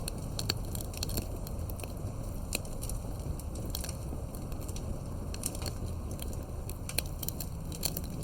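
Campfire crackling, with sharp irregular pops and snaps several times a second over a steady low rumble of burning.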